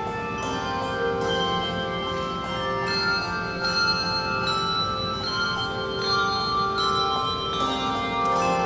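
Handbell choir playing a piece: many tuned handbells struck in turn and ringing together, their notes overlapping into sustained chords.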